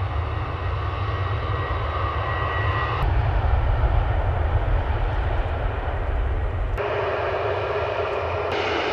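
Airliner engines running, in three short stretches separated by abrupt cuts about three and seven seconds in. Each has a steady whine over a low rumble.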